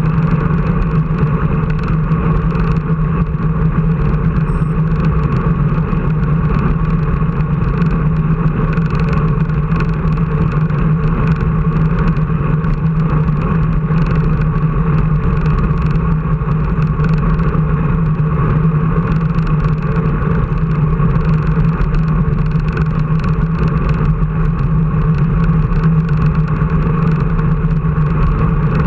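A vehicle engine running steadily, a constant low drone that neither rises nor falls.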